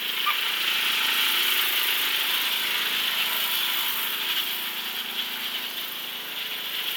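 Small tractor's engine running steadily.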